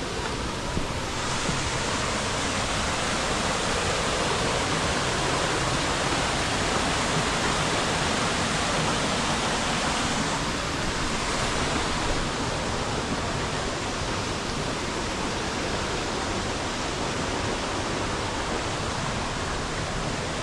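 Rushing stream water, a steady rush that grows brighter about a second in and eases a little about ten seconds in.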